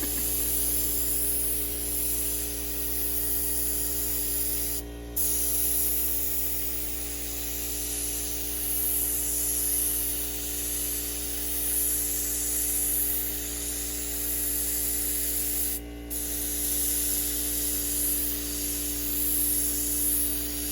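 Paint spray gun hissing steadily, with the steady hum of an air compressor running under it; the spraying stops briefly twice, about five seconds in and again about sixteen seconds in.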